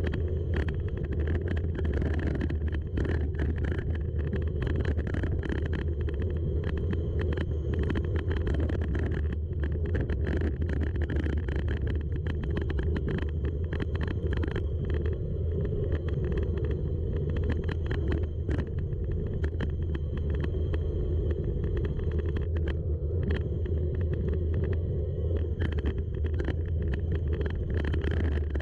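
Gravel bike rolling fast over a gravel road: a steady low rumble of tyres and wind on the microphone, with frequent sharp clicks and rattles from stones and the bike.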